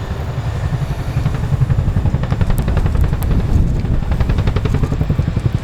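RAF Boeing CH-47 Chinook tandem-rotor helicopter at close range, its rotors beating with a rapid, regular blade slap that grows louder about a second and a half in.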